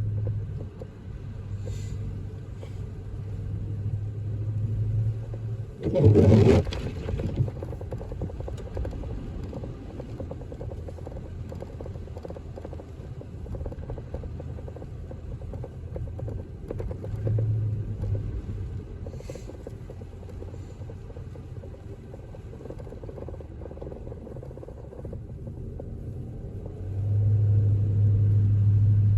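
Car driving on snow-covered, partly plowed road, heard from inside the cabin: a steady low road and engine rumble, with a sudden loud noise lasting about a second about six seconds in. The rumble grows louder near the end.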